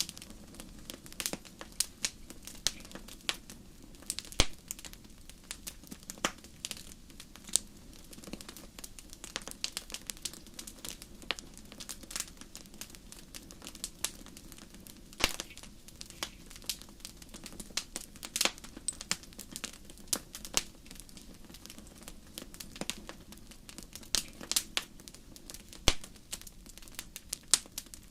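Wood fire crackling in a fireplace: frequent sharp, irregular pops and snaps over a soft steady rumble of the burning fire.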